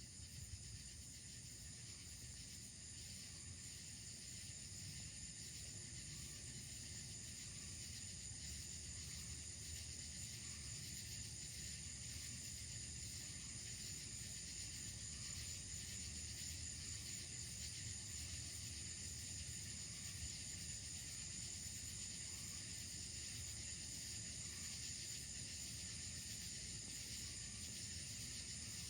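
A chorus of night insects, crickets or katydids, calling steadily in several high, unbroken bands over a faint low rumble. No thunder is heard from the heat lightning.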